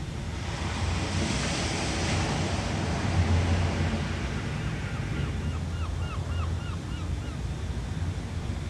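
Sea waves breaking and washing, the surf hiss swelling in the first few seconds over a steady low rumble.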